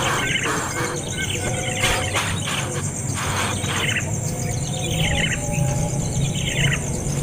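Baby bird chirping, with short calls and then two longer calls that fall in pitch, over a steady low hum.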